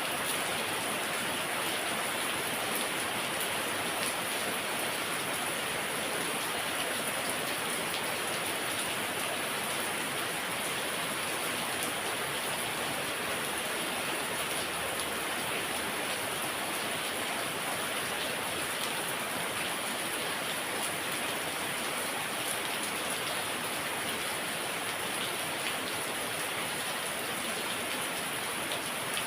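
Heavy rain falling steadily, a dense even hiss of drops hitting surfaces with fine pattering throughout.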